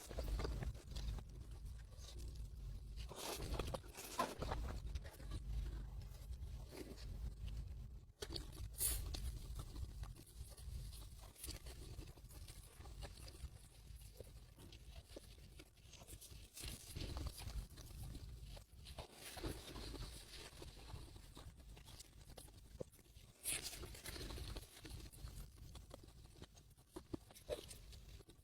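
Close-miked eating sounds: crunching and chewing, with scattered crackles and taps from handling.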